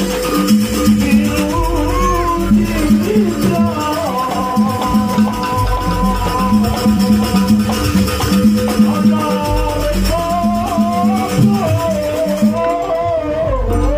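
Live jaranan ensemble music: a steady, repeating percussion pattern under a wavering melody line, with shaken rattle-like percussion.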